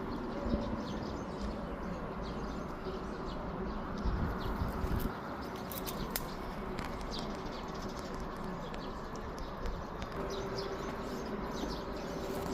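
Wild birds chirping in short high calls, over a low steady call. A brief low rumble comes about four seconds in.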